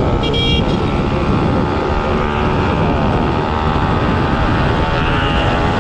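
Yamaha RX two-stroke motorcycle engine running steadily while riding. A short high-pitched tone sounds briefly near the start.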